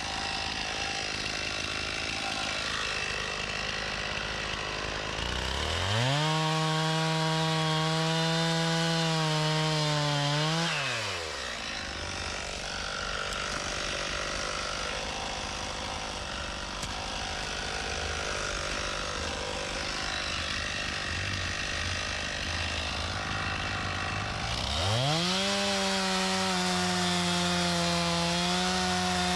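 Stihl MS391 two-stroke chainsaw idling, then opened up to full throttle for about five seconds before dropping back to idle. Near the end it is throttled up again and held high, as when bucking a log.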